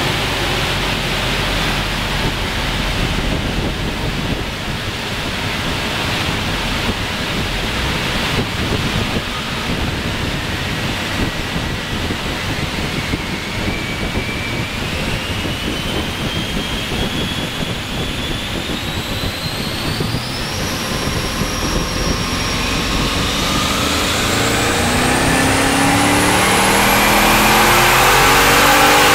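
HSV VE Clubsport's twin-turbocharged V8, on 7 psi of boost, running on a chassis dyno. A high whine starts climbing in pitch about a third of the way in, and the engine note rises and grows louder near the end as the revs build through the pull.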